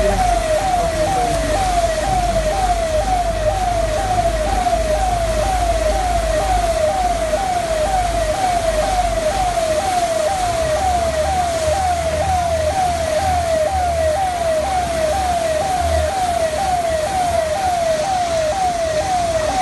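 Emergency vehicle siren sounding continuously in a fast repeating sweep, about two cycles a second, at a steady pitch, over a steady hiss of street noise.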